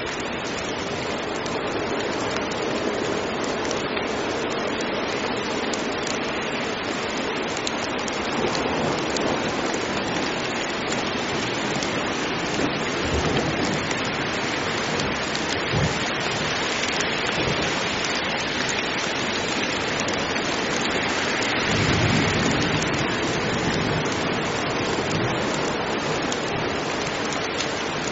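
Heavy rain falling steadily, with low rumbles of thunder about halfway through and again a little later.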